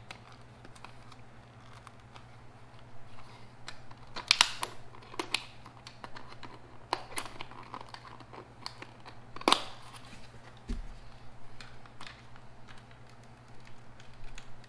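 Plastic packaging being worked open by hand, crinkling with a run of sharp clicks and snaps; the two loudest snaps come about four seconds in and near ten seconds in.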